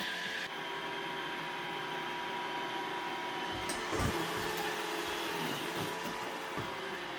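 Roomba robot vacuum cleaner running with a steady whir of motor and brushes, with a single knock about four seconds in.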